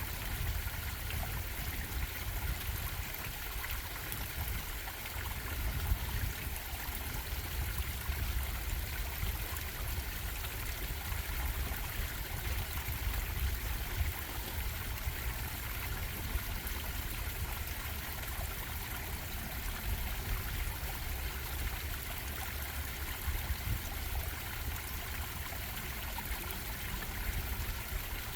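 Stream water bubbling and trickling steadily, over a low rumble.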